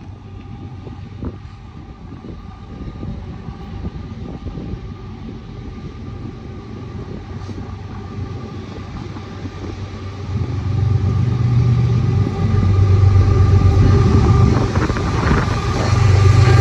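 Diesel freight locomotive approaching, its low engine rumble growing steadily louder and rising sharply about ten seconds in as it nears.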